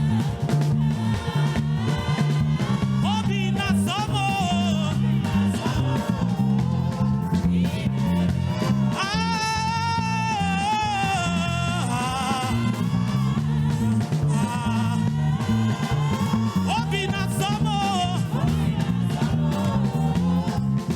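Live praise-and-worship band music with a busy, steady bass line and a wavering melody line on top. The melody stands out most strongly about nine to twelve seconds in.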